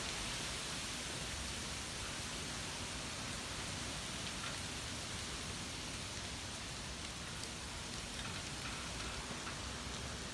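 Steady rush of wind ahead of a windstorm, with an uneven low rumble of wind on the microphone.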